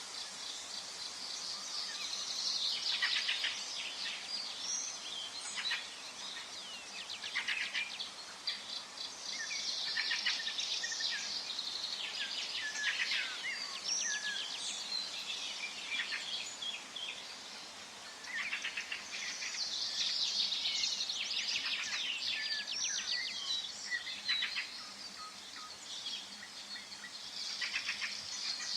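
Several birds singing and chirping together, in busy waves of quick high trills and chirps with short lulls between, over a faint steady background hiss.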